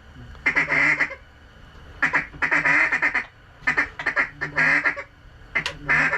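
Several loud bursts of rapid mallard quacking, each a quick run of notes, with short pauses between the bursts.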